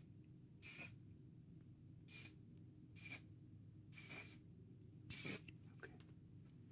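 Hairspray being spritzed in five short bursts, roughly a second apart, to style short hair.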